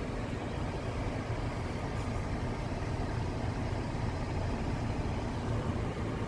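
Car running, heard from inside the cabin as a steady low rumble of engine and road noise.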